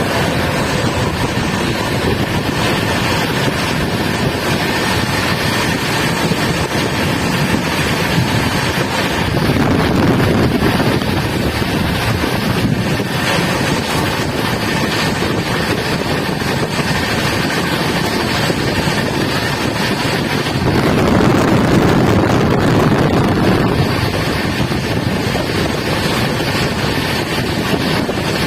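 Steady loud rush of the Sealdah Rajdhani Express train running at speed in a storm, with wind buffeting the microphone. A deeper rumbling swell comes about ten seconds in and again about twenty-one seconds in.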